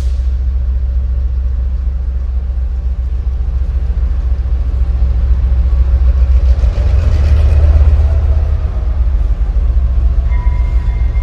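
City ambience dominated by a heavy, steady low rumble of a large vehicle, swelling louder about two-thirds of the way through. A thin steady high tone comes in near the end.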